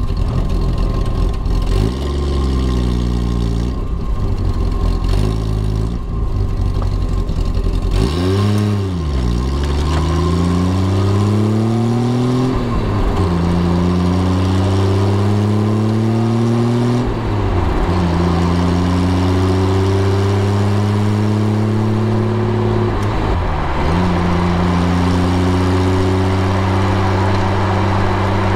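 Classic Triumph sports car engine, heard from inside the car, idling for several seconds and then pulling away and accelerating up through the gears. The engine note rises, drops at each of three gear changes, and climbs again.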